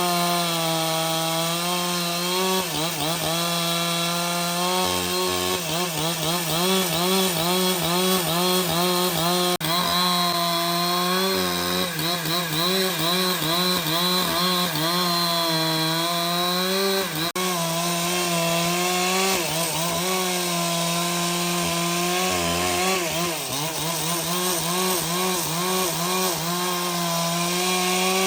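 Chainsaw cutting wood, its engine running at high speed under load with the pitch wavering up and down throughout the cut.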